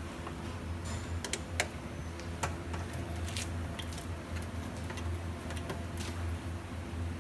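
Scattered small metallic clicks and ticks as a Phillips screwdriver drives bolts back into a pao steamer's body, over a steady low hum.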